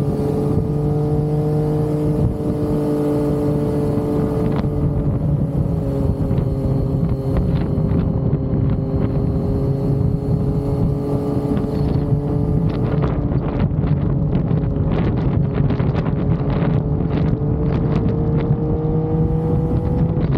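Yamaha XSR900's inline three-cylinder engine running at steady cruising revs, its pitch sagging slightly through the middle and rising again near the end, with wind rushing past and short crackles in the last third.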